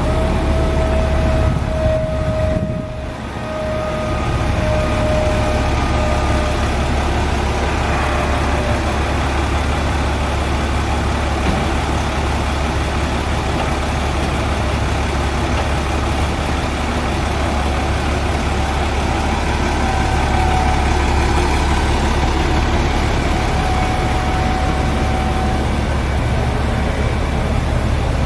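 Box truck engine idling: a steady low drone, with a thin whine over the first few seconds and again later on.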